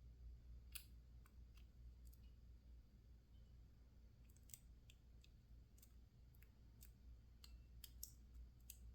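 Faint, irregular light clicks of lock-picking tools working the pins of a PacLock 410 Pro padlock while it sits in a false set, about a dozen over a low steady hum.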